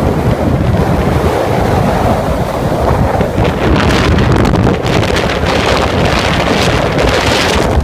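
Storm-force wind buffeting the microphone in a loud, continuous low rumble, over the wash of a rough, storm-tossed sea. A stronger hiss of gusts and surf builds from about halfway through.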